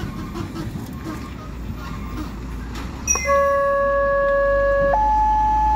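Low, steady traffic rumble, then about three seconds in a loud two-tone electronic siren starts, switching between a low and a high note every second or two.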